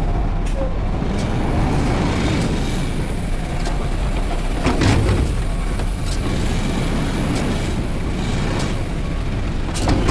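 Front-load garbage truck running with a steady low engine rumble, with a few short knocks and clanks.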